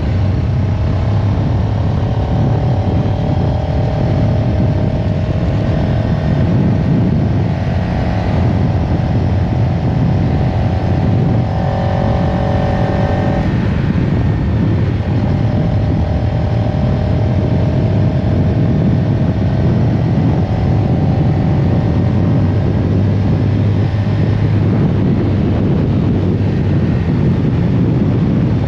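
CFMoto CL-X 700 Heritage motorcycle's parallel-twin engine running steadily and loud. Its pitch climbs slowly, drops sharply about halfway through, then climbs again.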